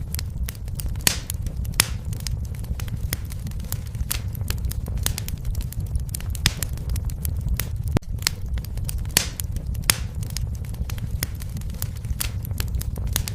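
Wood fire crackling and popping: a steady low rumble of flames with frequent sharp snaps at irregular intervals.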